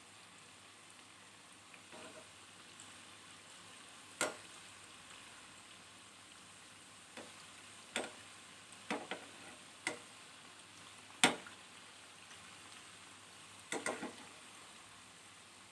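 Banana fritters frying in oil in a pan: a faint steady sizzle, broken by scattered sharp clicks and taps, the loudest about eleven seconds in.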